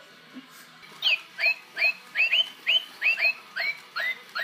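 Battery-powered plastic toy bird chirping: a steady string of short, rising chirps, about three a second, starting about a second in.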